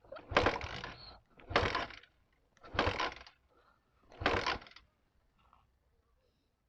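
Motorcycle kick-starter kicked four times, about once every second and a half, each stroke a short mechanical clatter as the engine turns over without firing: the stalled bike will not start.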